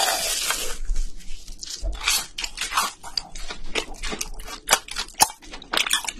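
A crunchy bite into crisp deep-fried food close to the microphone, then a run of sharp crackling crunches as it is chewed.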